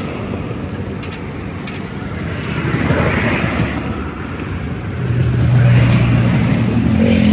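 Vehicle engine running with a rough low rumble. About five seconds in it settles into a louder, steady hum.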